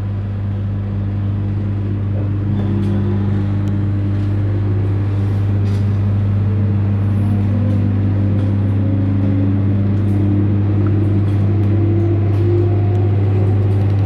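Cabin sound of a JR 721 series electric train under way: a steady low electrical hum, with motor whine climbing slowly in pitch as the train gathers speed.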